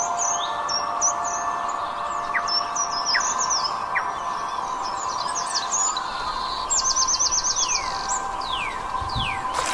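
Several wild birds chirping in short high calls, with a rapid trill of about ten quick notes partway through and a few falling whistles near the end, over a steady background hum.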